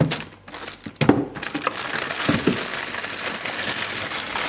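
Packaging crinkling and rustling as food is handled, with a few light knocks in the first second and a continuous crinkle from about a second in.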